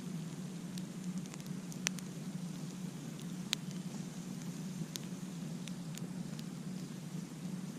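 Wood campfire crackling: scattered sharp pops, the loudest about two, three and a half and five seconds in, over a steady low rumble.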